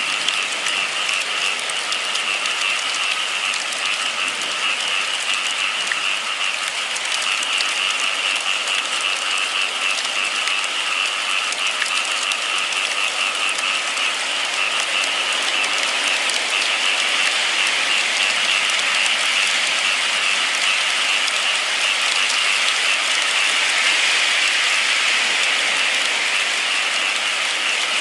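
Steady rain, a continuous even hiss, growing slightly louder about halfway through.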